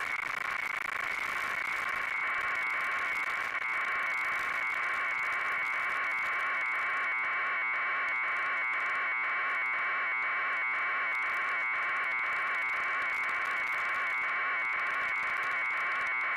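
Helicopter sound as a harsh, steady buzz, pulsing evenly a few times a second with the rotor chop.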